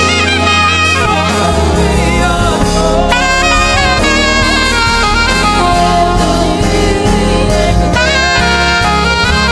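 Live gospel band playing: a saxophone carries the melody over keyboard, bass and drums.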